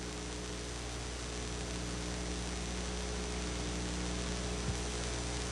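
Steady electrical mains hum with hiss in the recording, and one small click near the end.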